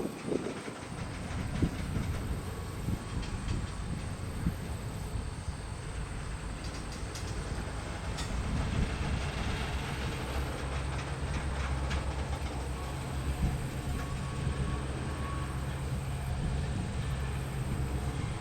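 Diesel freight locomotives pulling a train away. A steady low engine drone grows stronger about halfway through, with wheels clicking over the rail joints.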